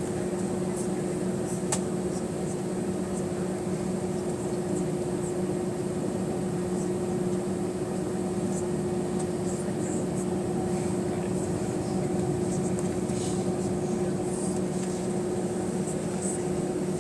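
Steady cabin hum inside an Airbus A320 on the ground before engine start, the drone of its air-conditioning supply, with two low steady tones and a faint high whine. A few small clicks are scattered through it.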